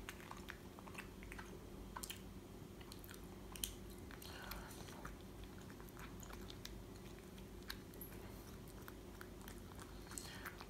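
Quiet chewing of soft flaked fish, with many small scattered clicks, over a faint steady low hum.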